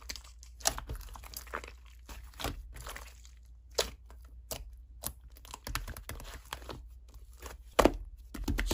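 Slime being worked by hand, giving irregular scattered clicks and crackling pops.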